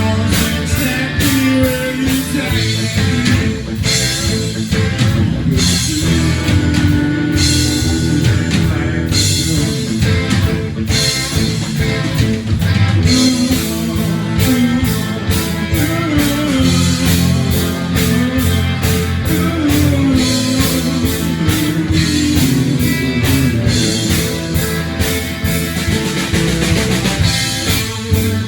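Live rock band playing, with guitar and a drum kit.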